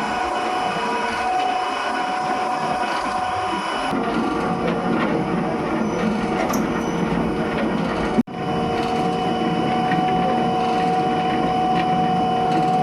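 Soap-factory machinery running steadily, with a continuous mechanical clatter over a steady hum. It cuts out for an instant about eight seconds in, then carries on the same.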